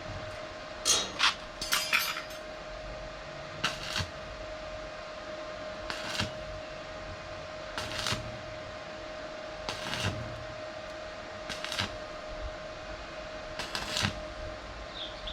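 Hand work on a steel boat frame: short sharp clicks or knocks, about one every two seconds, with a quick cluster of them near the start, over a steady electrical hum.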